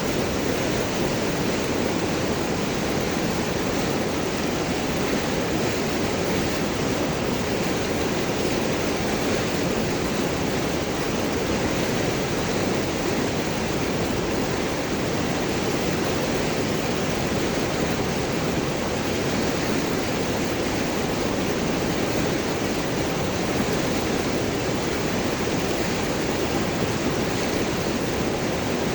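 River water flowing through and over large rocks: a steady, unbroken rush with gurgling.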